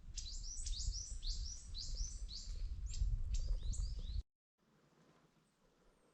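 Small birds chirping in quick succession, many short high notes, over a low rumble; about four seconds in, everything cuts off abruptly and only faint background remains.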